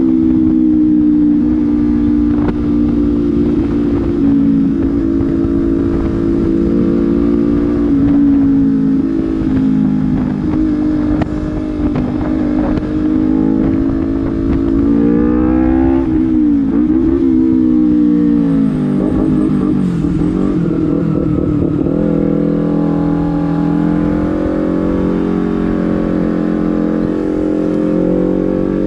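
Honda CBR250RR with an aftermarket Proliner slip-on exhaust being ridden: a steady exhaust note at cruising revs, which drops and wavers about halfway through as the rider backs off, then climbs again near the end as it accelerates.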